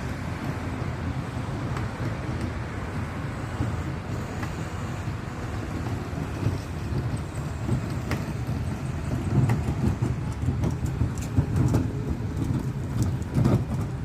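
Road traffic: a steady rumble of passing vehicles, with a few sharper short sounds in the second half.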